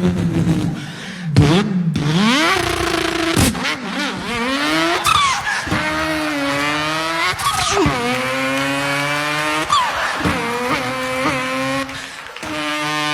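A man imitating a racing car with his voice: the engine note climbs and drops back again and again, like a car revving up through its gears, with short tyre-squeal-like shrieks in the first few seconds.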